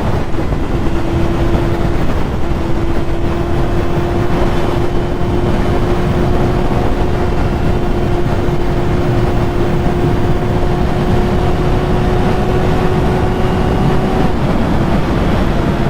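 Yamaha YZF-R6 inline-four engine running at steady high revs while riding, its pitch holding nearly constant and changing slightly near the end, with heavy wind rumble on the microphone.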